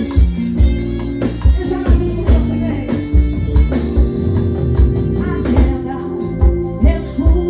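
Live band music: singing over a steady kick-drum beat, with held keyboard chords.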